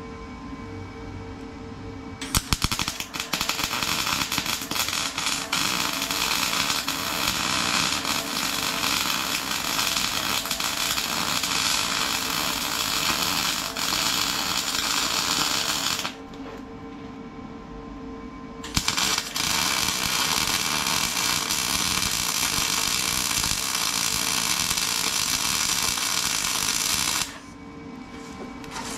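Electric arc welding on the steel cutting edge of an excavator bucket: a dense, steady crackle in two long runs of about fourteen and eight seconds, with a pause between, over a steady hum.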